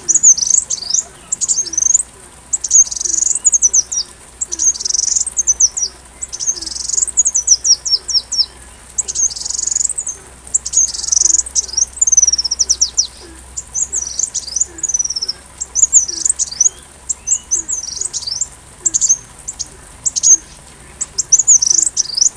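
Sunbird (Indonesian 'kolibri') song: bursts of rapid, very high-pitched downward-sweeping notes and trills, repeated with short pauses between phrases.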